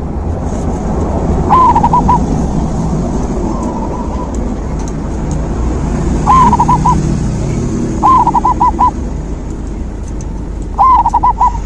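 Zebra dove (perkutut) cooing: four short, quick-pulsed coo phrases a few seconds apart, over a steady low rumble.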